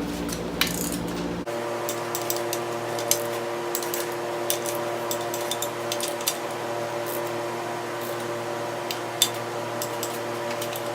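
Light metallic clinks and taps of hand tools and fasteners on an engine case, scattered irregularly, over a steady hum whose pitch shifts abruptly about a second and a half in.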